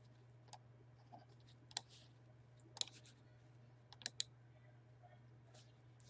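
A few scattered sharp clicks of a computer mouse, the loudest about two, three and four seconds in, some in quick pairs, over a faint steady low hum.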